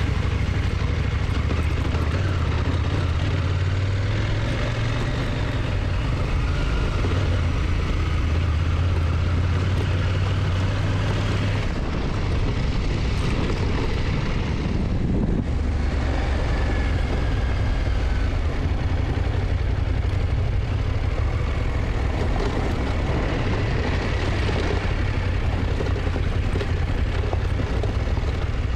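KTM motorcycle engine running steadily while riding, over a constant rush of wind noise. The engine's low note steps in pitch a few times, once about twelve seconds in.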